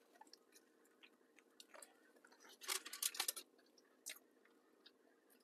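Faint close-up chewing of a Jamaican curry chicken patty, soft crunches and mouth clicks, loudest about halfway through.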